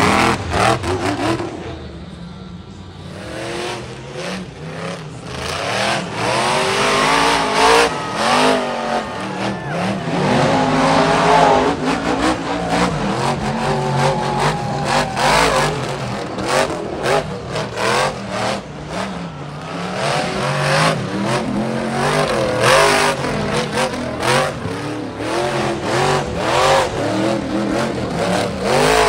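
Monster truck engines revving hard, the pitch climbing and falling again and again, with frequent short sharp cracks mixed in.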